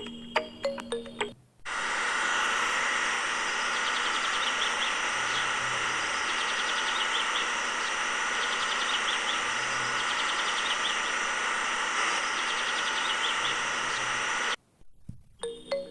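Tinkly music cuts off abruptly and gives way to a steady rushing noise, with small birds chirping faintly in short runs over it. The music returns shortly before the end.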